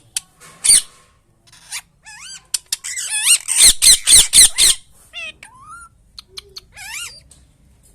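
Parrot squawking and whistling: short rising and falling chirps, then a run of about six loud, harsh squawks in quick succession around the middle, followed by a few more chirps.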